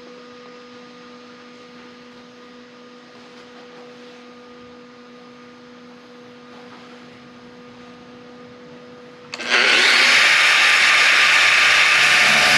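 A power cutting tool cutting into an old car body's sheet-metal door pillar. A moderate steady hum runs first, then about nine seconds in a much louder, harsh cutting noise starts abruptly and holds steady.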